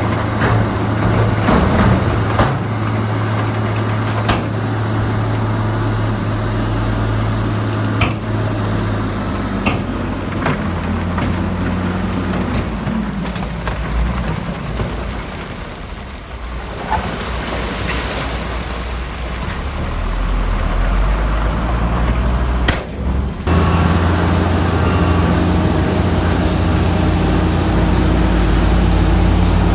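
Heavy diesel earth-moving machinery, a bulldozer or a dump truck, running under varying load, its engine note shifting up and down. Several sharp metallic knocks come in the first third, and the sound breaks off briefly about three-quarters of the way through.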